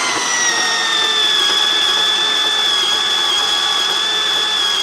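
Makita 18-volt cordless power tool's motor running steadily with a high whine, its pitch sagging a little about a second in as it takes up load, then holding.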